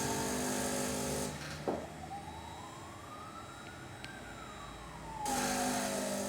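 A wailing siren that rises slowly in pitch for about two seconds, then falls for about two seconds. It begins a couple of seconds in, over a steady machine hum that fades out and comes back near the end.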